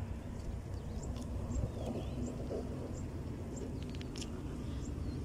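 Outdoor ambience of a steady low rumble and a faint hum, with short high bird chirps repeating about two or three times a second. A few sharp clicks come about four seconds in.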